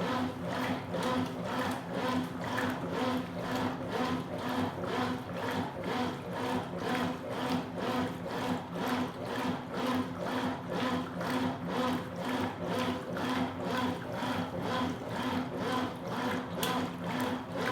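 Consul Supercargo 8 kg top-load washing machine agitating a load of towels in water: the motor hums steadily while the agitator swishes back and forth in an even rhythm of about two strokes a second. It is running on its recently repaired drive mechanism.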